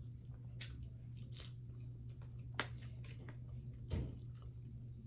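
Close-miked chewing of a mouthful of soft food, with small wet mouth clicks, over a steady low hum. About four seconds in, a plastic fork knocks against the glass serving dish.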